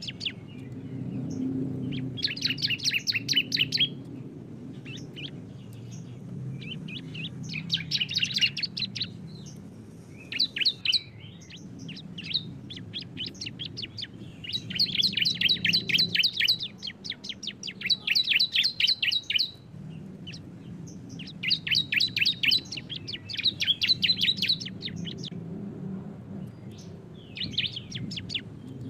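Bar-winged prinias (ciblek) singing the rapid rattling 'bren' song: bouts of very fast, high, repeated notes, each one to two seconds long, coming about eight times with short gaps between them.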